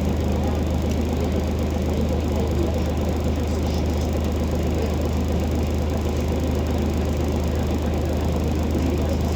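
Scania OmniCity city bus's diesel engine running with a steady low hum and rumble that keeps an even level, with no revving.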